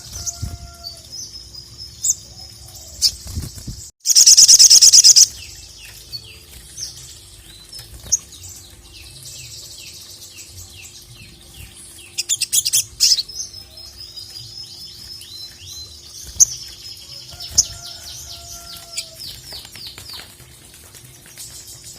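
Sogok ontong (ruby-cheeked sunbird) singing a fast, high song of chirps and quick falling notes. There is a very loud, dense trill about four seconds in, lasting about a second, and another rapid burst about twelve seconds in. A faint steady hum runs underneath.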